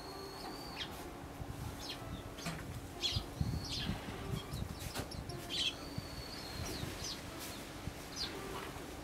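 Small songbirds calling: short sharp chirps and three drawn-out thin whistled notes that hook at the end, with soft low fluttering about three to four seconds in.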